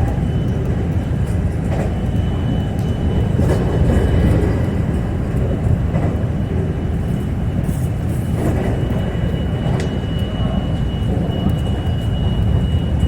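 Train running on the rails: a steady low rumble with a thin high whine over it.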